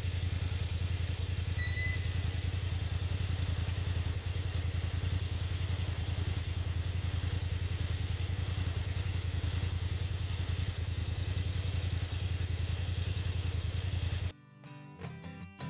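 Motorcycle engine idling steadily, with a short high beep about two seconds in. Near the end the engine sound cuts off abruptly and strummed acoustic guitar music begins.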